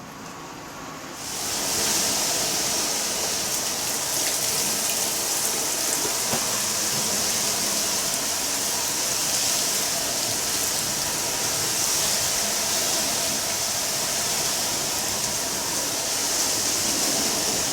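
Heavy typhoon rain: a steady, even rush of rain that comes in suddenly about a second in and holds without a break.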